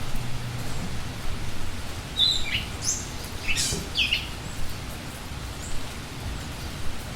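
Steady rain hiss with a small bird giving a short run of quick, high chirps about two to four seconds in.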